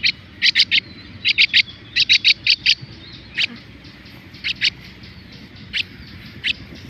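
Common myna chicks giving short, sharp, high-pitched calls in quick runs of two to five, with pauses between the runs.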